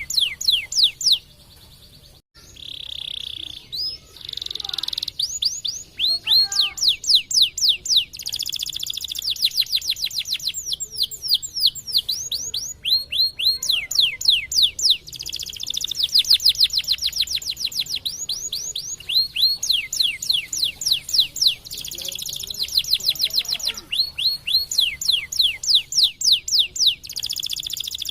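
Domestic white canary singing: long, fast trills of rapidly repeated sweeping notes, broken by a short pause about a second in and a few buzzy held notes soon after.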